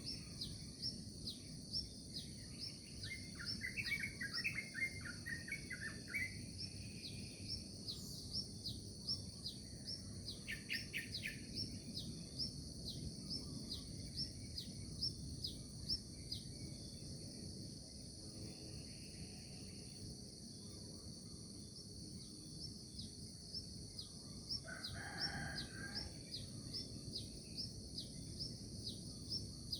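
Morning nature ambience: songbirds chirping and singing in short bursts over a steady high drone of insects, with one high chirp repeating about once a second.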